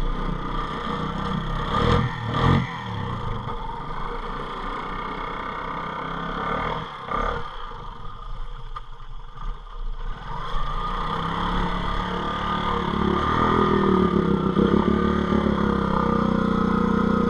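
ATV engine running at low revs with a couple of clunks about two seconds in, then picking up and running louder and harder from about ten seconds in.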